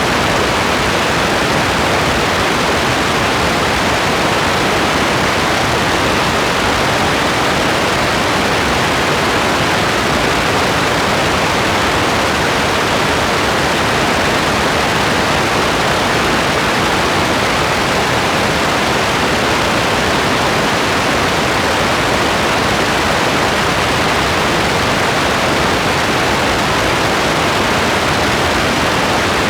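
Steady rain: an even hiss that does not change, with no separate drops or thunder standing out.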